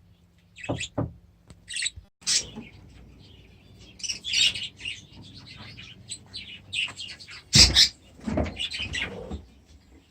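Cage birds in a birdroom, budgerigars and canaries, chirping and chattering in short irregular calls. One louder, sharper burst comes about three-quarters of the way through.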